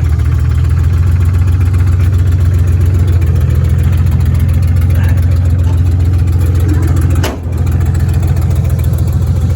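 Engine of a 1987 Dodge Dakota derby truck running steadily, with a brief dip and a click about seven seconds in.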